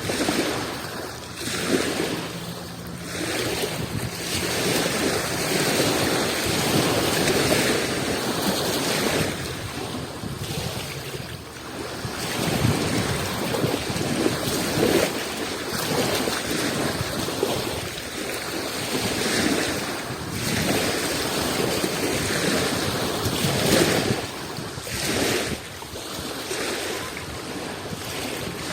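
Sea waves washing onto the shore, the surf rising and falling in surges every few seconds, with wind buffeting the microphone.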